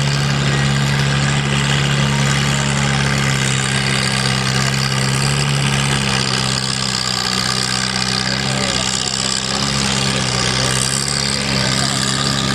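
Farmall H tractor's four-cylinder gas engine running hard and steady under load as it pulls the weight sled down the track.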